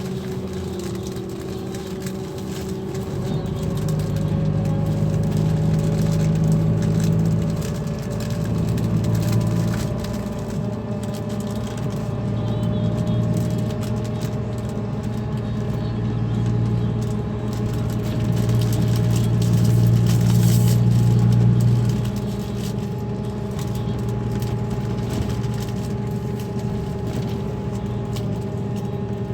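Diesel engine of a Scania K340 coach running steadily, its sound swelling louder and easing back a few times.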